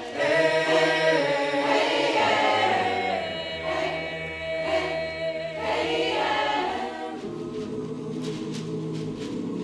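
Choir singing held chords, loud at first, then dropping to a softer sustained chord about seven seconds in.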